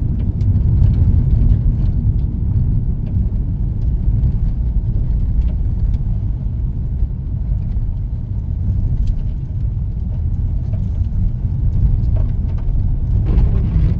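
Steady low rumble of tyre and engine noise inside a car's cabin, driving along a country road.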